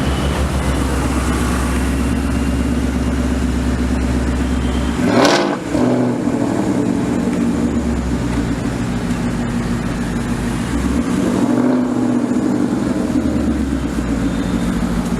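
Ford Mustang GT V8 with a Borla aftermarket exhaust, running with a steady deep drone. There is a short, sharp, loud burst about five seconds in and a rev that rises and falls around eleven to twelve seconds in.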